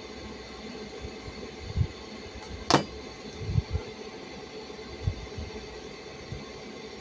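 Handling noises over a faint steady hum: a few dull knocks, and one sharp click a little under three seconds in.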